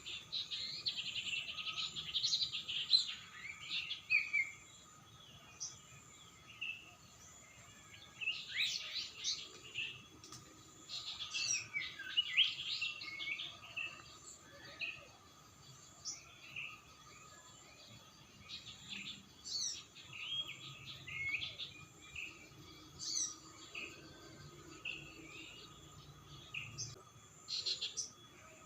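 Birds chirping and singing in repeated bursts of quick high notes, some sweeping in pitch, over a faint steady high hum.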